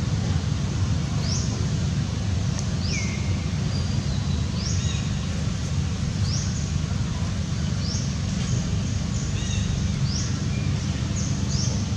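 Short, high, upward-sweeping bird chirps repeating about once a second over a steady low rumble.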